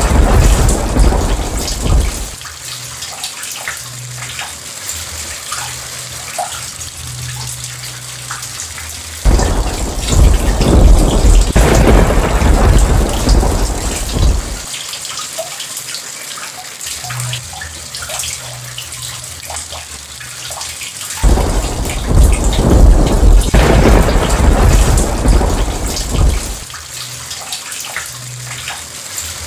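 Steady heavy rain with thunder rumbling three times. The first rumble dies away about two seconds in, the second runs from about nine to fifteen seconds, and the third from about twenty-one to twenty-six seconds.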